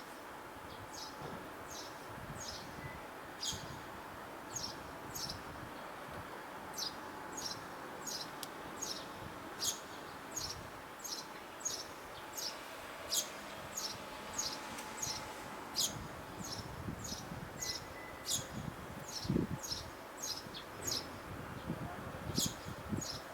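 Eurasian tree sparrows chirping: short, high single chirps repeated about once or twice a second, over a steady background noise. A few low thuds come in the last few seconds.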